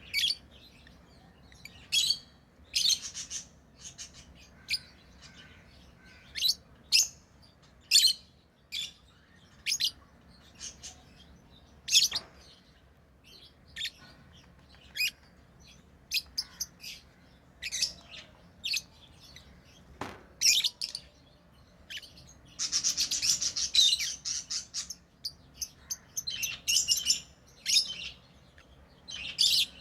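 Pet lovebirds chirping: short, sharp high-pitched calls every second or so, with a denser run of chattering about two-thirds of the way through.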